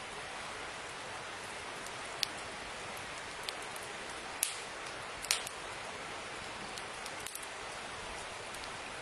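Steady hiss with a few sharp pops, the loudest about two, four and a half, and five seconds in.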